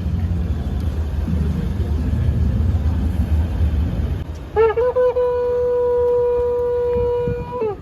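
Low rumbling crowd noise, then a horn sounding one long steady note with a brief upward scoop at its start, held for about three seconds and cut off near the end.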